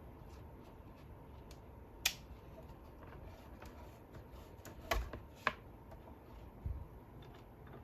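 Light clicks and taps of small parts being handled during disassembly, with a sharp click about two seconds in, two louder clicks around five seconds in and a soft knock near the end.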